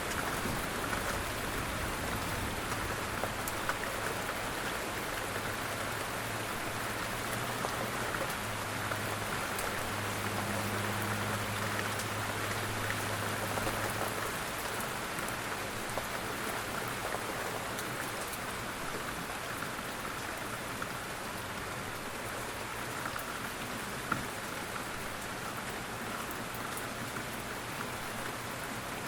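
Steady rain falling, a dense even patter, with a faint low rumble underneath in the first half that dies away about halfway through.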